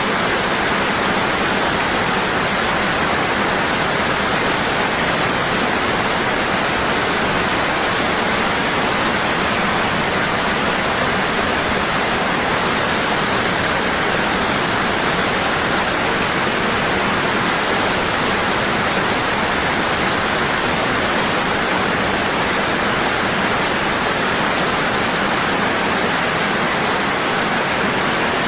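Waterfall falling strong and steady: a constant, even rush of water with no change in level.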